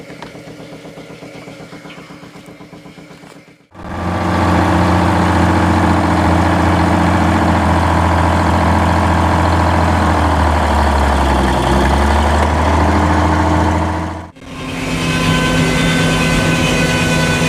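A heavy engine running steadily, heard in three stretches split by two abrupt cuts about 4 and 14 seconds in. The first stretch is quieter; the loud middle one dips briefly in pitch near its end.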